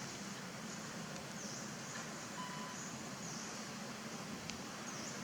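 Steady outdoor background noise with faint, short, high-pitched chirps repeating about once a second.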